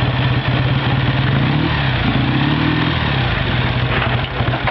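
A 1948 Triumph Speed Twin's 500cc parallel-twin engine idling, with the engine note briefly lifting about two seconds in.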